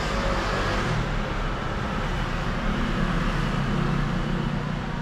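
Steady rumbling background noise with a hiss throughout, without distinct knocks or clicks.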